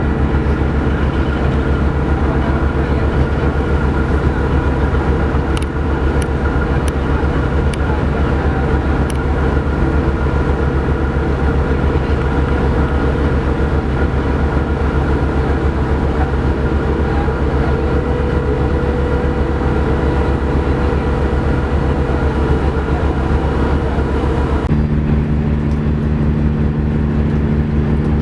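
Ferry's diesel engines running with a steady low drone, heard aboard the ship. About 25 seconds in, the hum's tone shifts abruptly to a different steady pitch.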